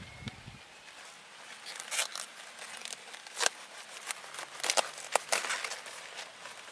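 Irregular crackling and rustling: a string of sharp crinkles and snaps, heaviest from about two to five seconds in.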